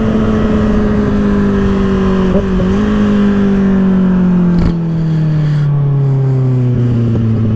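2024 Kawasaki ZX-6R's 636 cc inline-four running through an aftermarket M4 exhaust while riding, a steady drone whose pitch slowly falls as the revs come down. A brief dip in pitch comes about two and a half seconds in.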